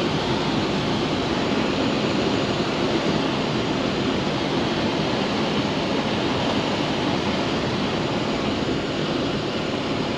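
Ocean surf at high tide: a steady, unbroken rush of waves.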